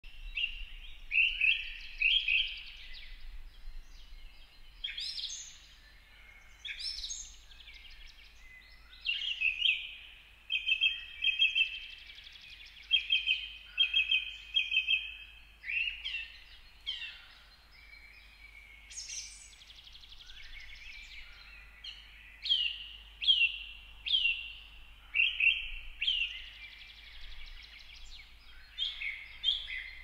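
Birds calling over and over: short sharp calls, some sweeping downward, and quick runs of repeated notes, with a faint low rumble of background noise beneath.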